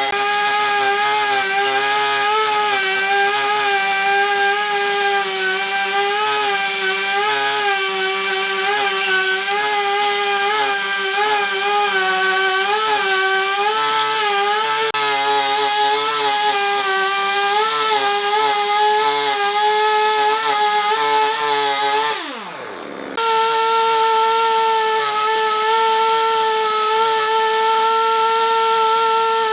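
A power tool's motor whining as it works wood, its pitch wavering under changing load. About three-quarters of the way through it dips briefly with a quick falling sweep, then runs on steadily at a slightly higher pitch.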